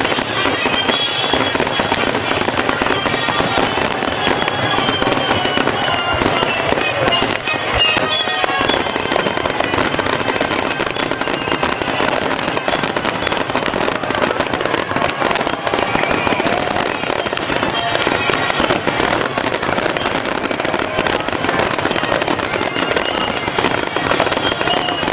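Fireworks finale: a dense, continuous barrage of shell bursts and crackling with no gaps between them.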